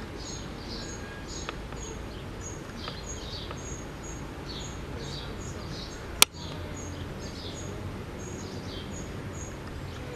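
Small birds chirping, short high notes repeated over and over, above a steady low outdoor background rumble. One sharp click stands out about six seconds in.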